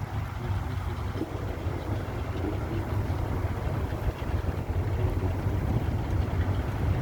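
Steady low rumble on board a chain ferry under way, the vessel hauling itself across the river on its chains.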